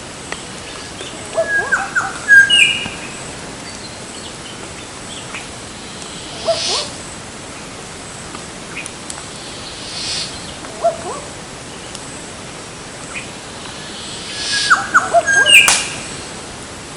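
Wild birds calling in short, sharp bursts. There are two loud clusters, a couple of seconds in and near the end, with a few fainter calls in between, over a steady background hiss.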